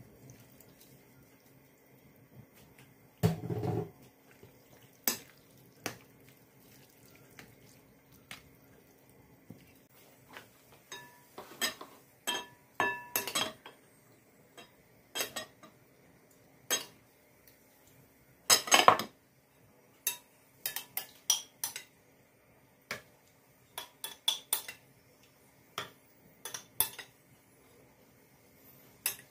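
Dishes and cutlery being handled: scattered clinks and knocks, a few of them ringing briefly, with a duller thump about three seconds in and the loudest clatter of knocks a little past halfway.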